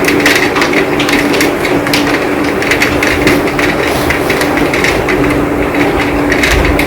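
Heavy rain falling, with many sharp drops striking hard surfaces, over a steady low hum.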